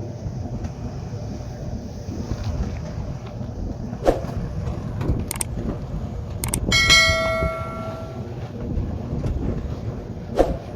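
A metal object is struck once and rings for about a second and a half, among a few sharp knocks over a steady low rumble.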